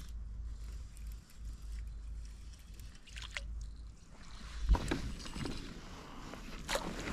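Wind rumbling on the microphone aboard a fishing kayak, then a loud knock against the kayak about four and a half seconds in, followed by further knocks and rustling, with another sharp knock near the end.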